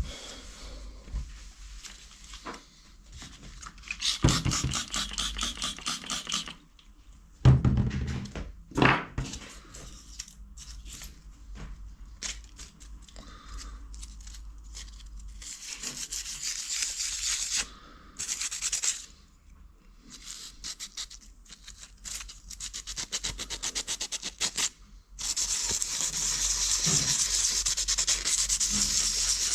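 Sandpaper rubbed by hand over the brushcutter engine's metal piston, scouring off soot in spells of quick back-and-forth strokes. A few loud knocks come about eight seconds in, as parts are handled.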